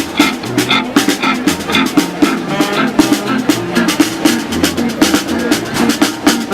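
Street band playing an upbeat funky tune, with drums keeping a steady beat under a pitched melody and bass line.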